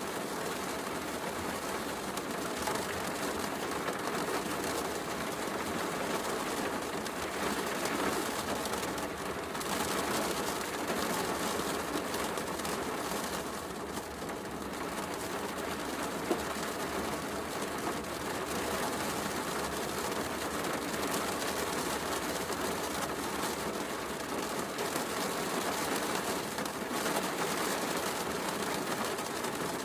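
Steady heavy rain mixed with a wood fire crackling, with one sharper click about sixteen seconds in.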